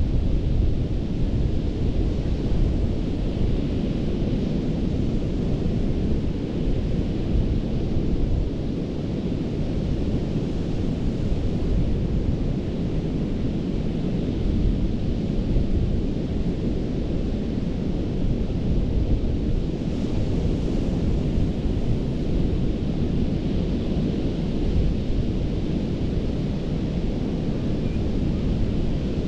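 Gulf of Mexico surf washing onto a sandy beach: a steady, low rumbling wash of breaking waves with no distinct single crashes.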